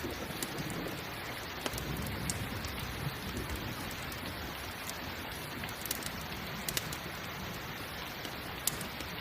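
Steady rain, with scattered sharp pops and crackles from a campfire and a low rumble underneath.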